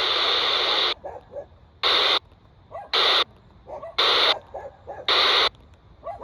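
FM static from a radio receiver tuned to the UK 27/81 FM CB band. There is loud steady hiss until about a second in; after that the hiss drops away and comes back in short bursts about once a second, with faint wavering sounds in the quieter gaps between bursts.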